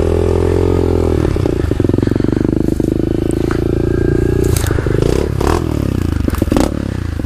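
A 2016 SSR 125 pit bike's single-cylinder four-stroke engine running at a fairly steady pitch while riding through brush. Several knocks and scrapes come about two-thirds of the way through.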